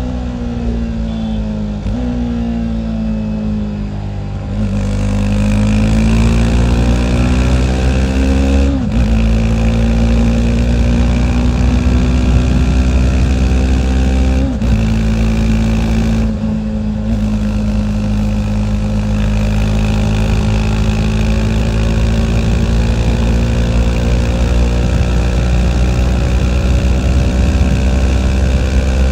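TVS Apache RR 310's single-cylinder engine and exhaust under way: the pitch falls off at first, then climbs under acceleration and drops sharply twice as the rider shifts up a gear, before settling into a steady cruise with a slowly rising note.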